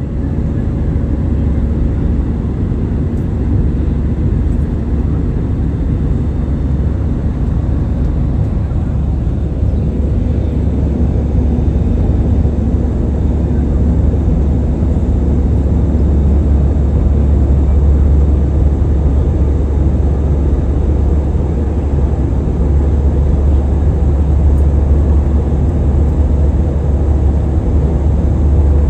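Passenger jet's engines and rushing air as a steady, loud, deep rumble, rising slightly in level over the stretch. A faint steady hum runs beneath it and stops about halfway through.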